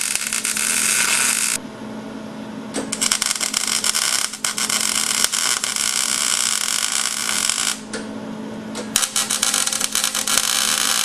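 Miller electric arc welder laying beads on a scrap-iron bracket: a loud crackling, sizzling arc in three runs, broken by short pauses about one and a half seconds in and near eight seconds in. A steady hum from the welder runs underneath, through the pauses.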